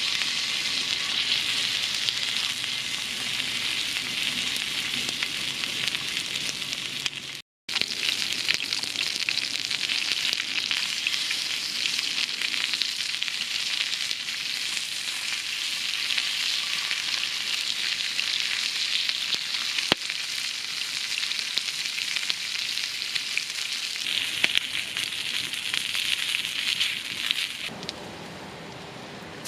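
Food sizzling as it fries in a pan: a dense, steady hiss with fine crackling. It cuts out for a moment about a quarter of the way in, and drops to a quieter level shortly before the end.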